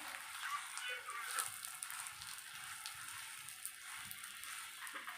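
Roti frying in ghee in a hot pan: a faint, steady sizzle with scattered small pops.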